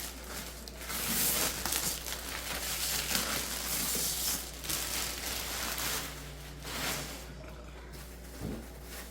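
Plastic shrink wrap and packing crinkling and rustling in irregular stretches as it is handled and pulled off, dying down about seven seconds in.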